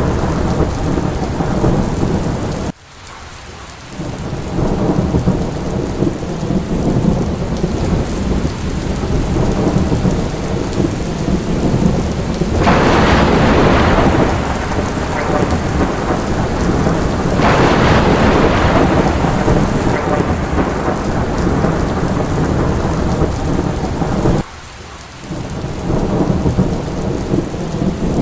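Steady heavy rain with a continuous low rumble of thunder. It swells louder twice in the middle and drops away abruptly twice, for about a second each time.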